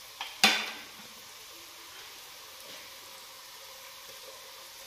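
Onions and spices frying in oil in a clay pot, a steady faint sizzle, with one sharp knock about half a second in.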